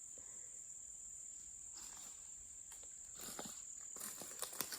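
Steady high-pitched chorus of insects in the rainforest, with a few light rustles and clicks in the last second or so.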